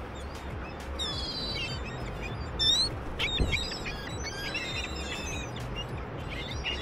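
Birds calling: many short chirps and squeaky rising and falling whistles overlapping, over steady background noise, with one louder squawk a little under three seconds in.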